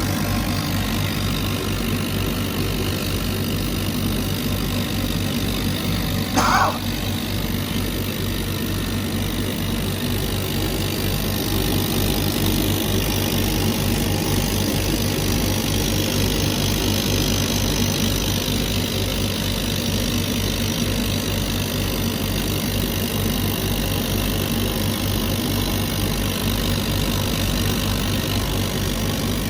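CNC laser cutter running, a steady machine hum with a regular low pulsing throughout. A brief high squeak comes about six seconds in.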